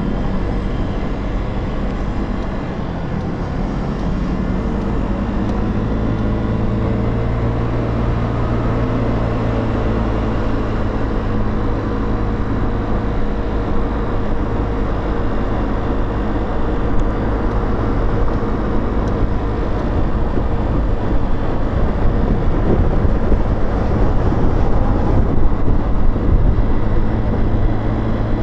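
Motorcycle engine running while riding, mixed with wind and road noise, getting louder over the last several seconds.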